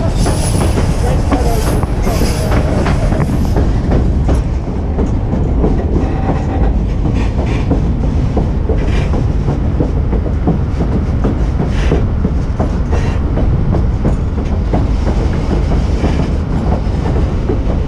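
White Pass & Yukon Route narrow-gauge passenger train running on the rails, heard from the side of a moving car: a loud, steady rumble of wheels with a constant patter of clicks from the track.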